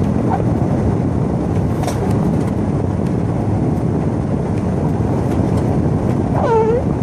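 Pickup truck in four-wheel-drive low grinding slowly through deep unplowed powder, heard inside the cab: a steady low rumble of engine and tyres pushing through snow.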